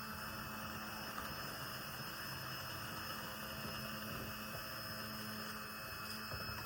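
Steady low hum over an even faint hiss, unchanging throughout.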